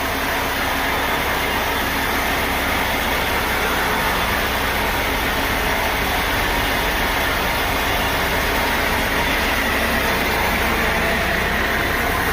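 Sawmill machinery running steadily, a continuous engine-like drone without breaks.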